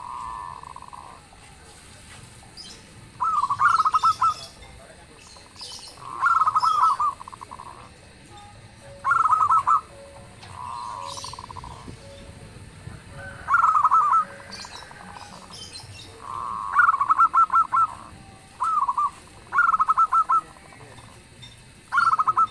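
Zebra doves (perkutut) cooing: short rapid, stuttering coo phrases repeated about every three seconds, some smoother and softer, with faint high chirps from small birds.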